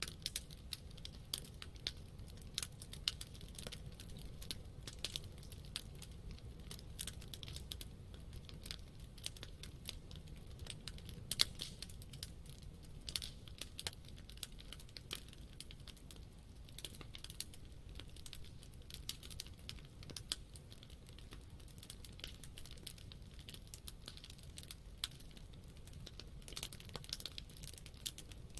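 Wood campfire burning: steady crackling with frequent irregular sharp pops and snaps over a low rumble of the flames.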